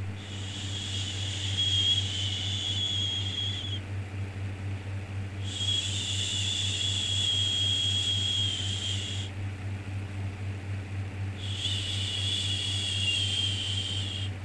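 Shushing 'shhh' sounds for soothing a baby: three long shushes, each about three and a half seconds, with short pauses between them, over a steady low hum.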